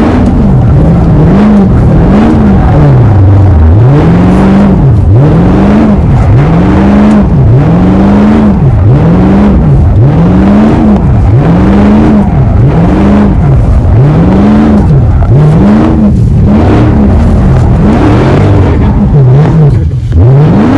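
A V8 car doing donuts. The engine note rises and falls over and over, about once every second and a bit, as it spins, with tyre noise underneath. Very loud.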